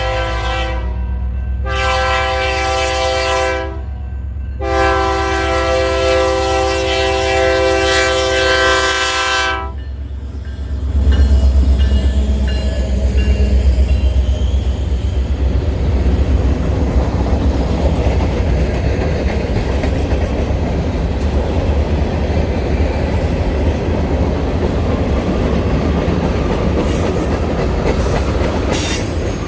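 Diesel locomotive horn sounding a chord in three blasts, the last one long, about five seconds. The single locomotive then passes close with a loud low rumble from about 11 seconds in, followed by the train's cars rolling by with a steady clickety-clack of wheels on rail joints.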